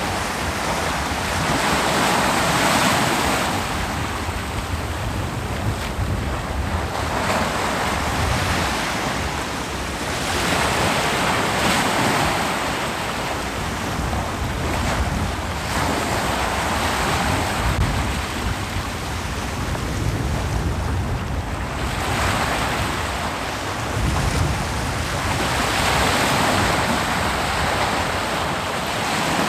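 Ocean waves breaking and washing up a beach, swelling and fading in repeated surges every few seconds.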